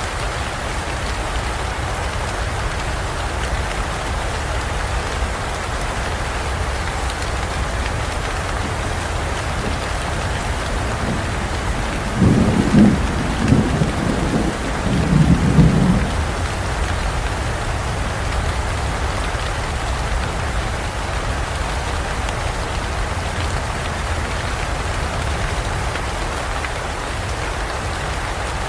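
Steady heavy rain falling, with a rumble of thunder about midway that swells three times over some four seconds.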